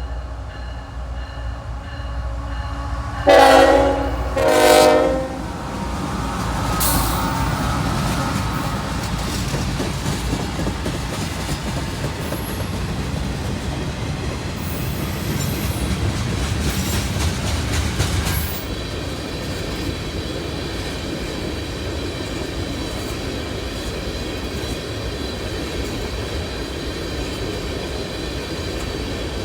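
Locomotive horn sounding two loud blasts a few seconds in, followed by the steady rumble of a freight train rolling past. The rumble eases to a lighter steady noise after about 18 seconds.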